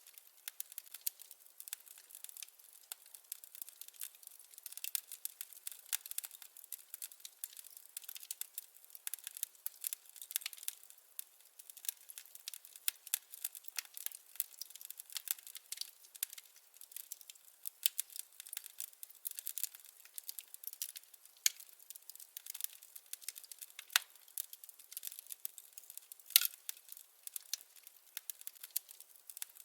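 Wood fire crackling: a steady stream of small, sharp crackles and pops from burning firewood, with a few louder snaps, one about 24 seconds in and one about 26 seconds in.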